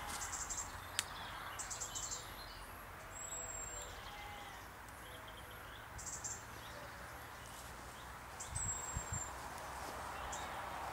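Small woodland birds chirping and calling with high thin notes, including two long level whistles, over footsteps on a path of dry leaves.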